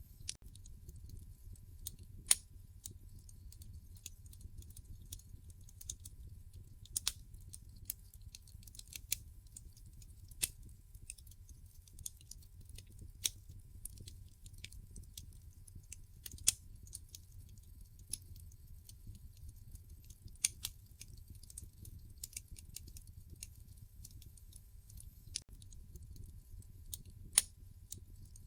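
Wood fire burning in a fireplace: irregular sharp crackles and pops, a few much louder than the rest, over a steady low rumble.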